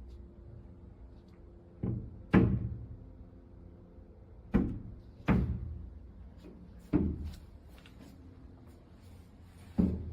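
Repeated heavy bangs, about six at uneven intervals, like something knocking against a door or panel, each ringing briefly as it dies away, over a faint steady hum.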